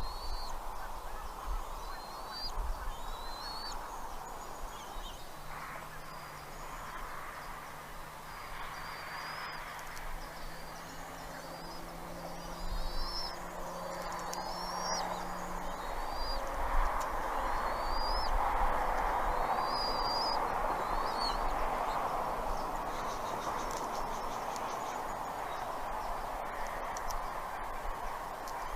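Bald eagle calls: short, high, thin chirping notes repeated about once a second, over a steady background hiss. A low steady hum comes in about five seconds in and stops around sixteen seconds.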